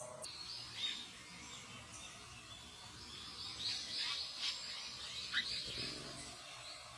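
Small birds chirping: a run of short, high chirps and quick downward notes, busiest in the middle, over faint outdoor background noise.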